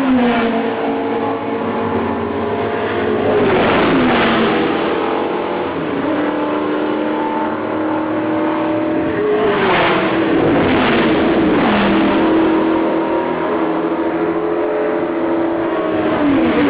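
Historic sports racing cars, Ford GT40s among them, accelerating hard onto the straight and passing one after another: five or six pass-bys, each engine note dropping in pitch as the car goes by, with other engines running at high revs in between.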